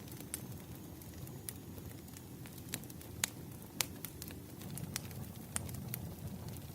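Firewood burning: a steady low rush of flames with sharp crackles and pops scattered irregularly, the loudest a little past the middle.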